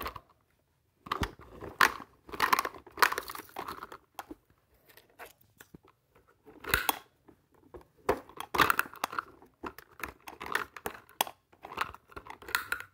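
Plastic toy garbage truck and its bin being worked by hand to tip the bin: irregular plastic clicks, rattles and scraping.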